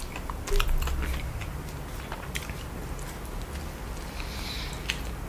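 Close-miked chewing of a burger smothered in cheese sauce: scattered short mouth clicks and smacks, with a fresh bite taken a little after four seconds in.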